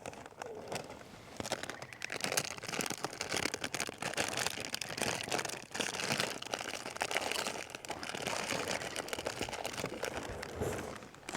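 Continuous crinkling and rustling with many small crackles, the sound of something crinkly being handled and shifted about.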